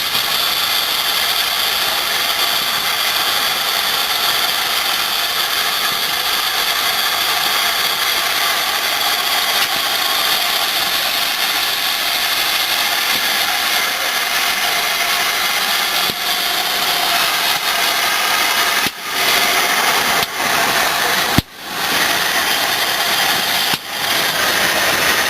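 Steam locomotive letting off steam in a steady hiss, with a few brief drop-outs near the end.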